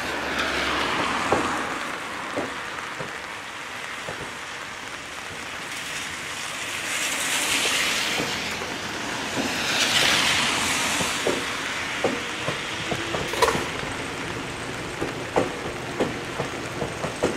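Yellow Seibu Railway electric train set 245F rolling slowly along depot tracks: a running hiss that swells and fades, with irregular sharp clicks of wheels crossing rail joints and points, more of them in the second half.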